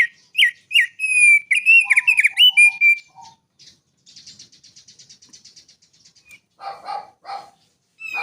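A small songbird singing: a run of loud, clear whistled notes and quick chirps, then a fast, quieter trill, and near the end three harsher notes.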